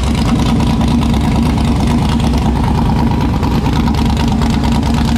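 Texas Speed 416-cubic-inch LS3 V8 with Holley EFI running steadily at idle, a loud, even low rumble.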